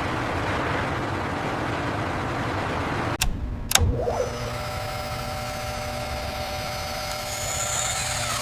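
Steady industrial machinery noise. About three seconds in it changes abruptly, with a couple of sharp clanks, to a steadier machine hum with several constant tones.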